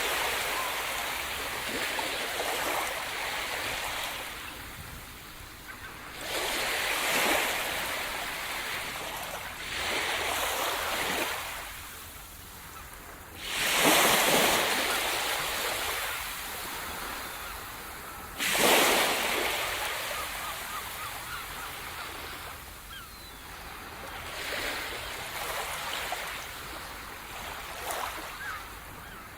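Sea surf: waves breaking on the shore about every four to five seconds, each a sudden rush of hissing water that swells and then fades as it washes back.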